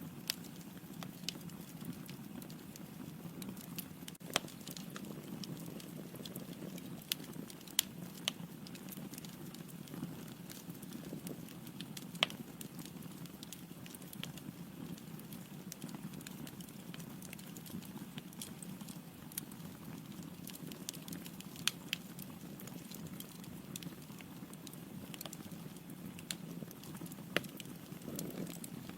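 Wood logs burning in a fireplace: a steady low rush of flame with irregular crackles and sharp pops, a dozen or so standing out.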